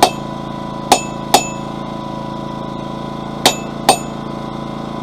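Hammer lightly striking a hot cut chisel held on a hot steel bar over an anvil to score a line: five short metallic blows with a ring, the first two pairs close together. A generator's steady engine drone runs underneath.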